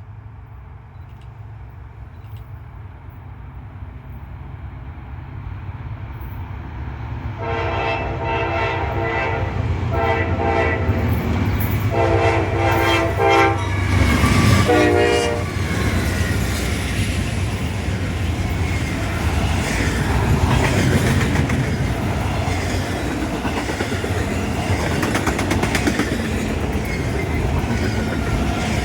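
Norfolk Southern freight train's lead diesel locomotives approaching, growing steadily louder, then sounding the air horn in four blasts, the first and third longer, from about 7 to 15 seconds in. The locomotives and cars then pass close by with a loud rumble and clatter of wheels on the rails.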